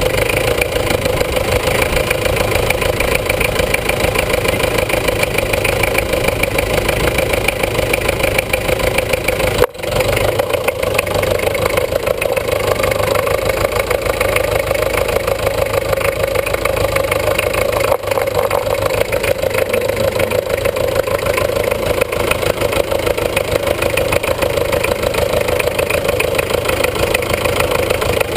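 International B-250 tractor's diesel engine running steadily, heard close up from underneath the tractor, with a brief drop in level about ten seconds in.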